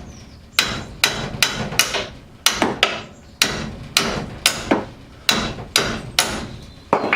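Hammer striking a rusted, seized steel suspension bolt or part to drive it free: about fifteen sharp metal-on-metal blows with a short ring after each, irregular, roughly two a second.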